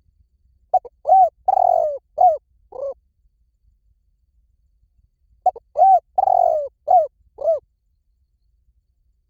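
Spotted dove cooing: two phrases of about five notes each, a few seconds apart.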